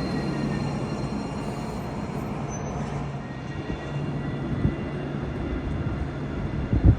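A tram or bus running past with a steady low hum and rumble. There is a short knock about two-thirds of the way through, and a louder thud just before the end.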